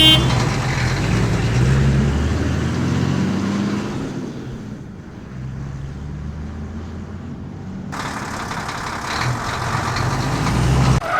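A tractor-like engine running steadily. It fades for a few seconds in the middle, then builds back up toward the end.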